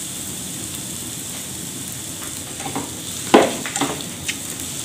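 Sliced onions, curry leaves and dried red chillies sizzling steadily in hot oil in a frying pan. From about three seconds in they are stirred, and the utensil scrapes and knocks against the pan several times.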